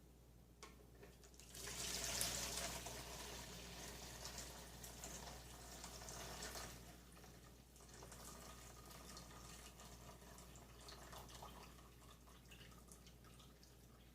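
Hot cooking water being poured off microwaved ramen noodles from one bowl into another, the noodles held back with a fork. The pour starts about a second and a half in, runs steadily for about five seconds, then thins to a faint trickle and drips.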